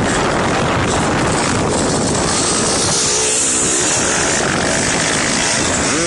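Motocross dirt bike engine running, a loud, rough, steady noise, with a wavering engine pitch briefly audible about halfway through.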